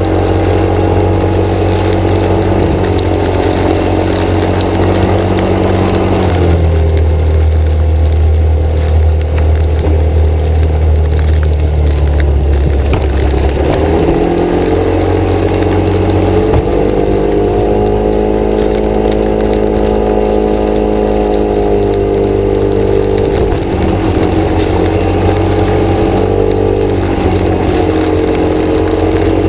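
An engine running steadily, its note dropping about six seconds in and climbing back up a little after the middle.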